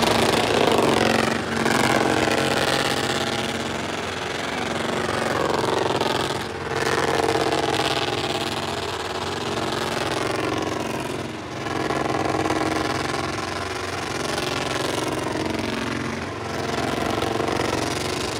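Car engine held at high revs during a burnout. Its pitch dips and climbs back again about every five seconds.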